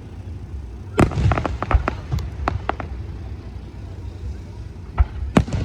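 Aerial fireworks bursting: a sharp bang about a second in, followed by a quick run of crackling pops, then two more bangs near the end.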